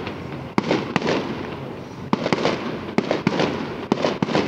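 Aerial fireworks shells bursting overhead: about ten sharp bangs at uneven spacing, several in quick succession, each trailing off in a short echo.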